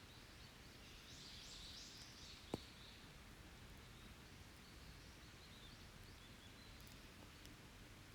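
Faint distant birdsong, a short burst of high warbling calls and then softer calls later, over an open wood campfire that gives one sharp crackle about two and a half seconds in and a few faint ticks after.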